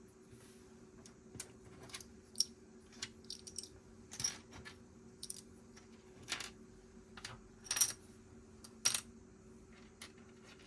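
Plastic Lego pieces clicking and clattering as they are handled, about a dozen irregular clicks with the loudest near the end, over a faint steady hum.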